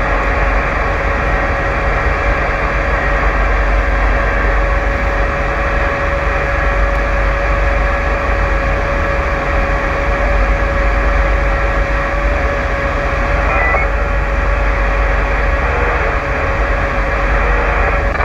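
Steady low rumble of a running vehicle, with a constant hiss and a steady whine-like tone over it.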